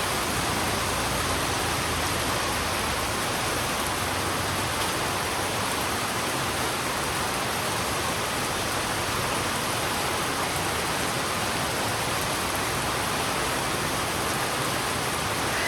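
Heavy rain falling steadily on a road: an even, unbroken hiss with no separate drops or thunder.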